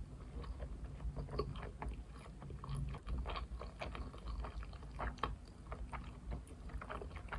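Close-miked chewing of sushi: a quick, irregular run of small wet clicks and smacks from the mouth over a low background hum.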